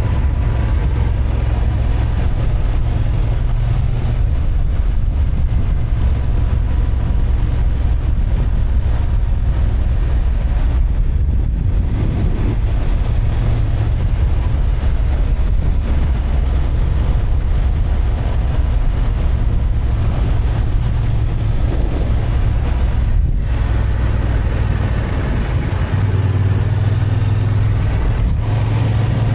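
Honda XL750 Transalp's parallel-twin engine running under way, heard from on board with wind rushing over the microphone. The low engine note shifts a few seconds before the end.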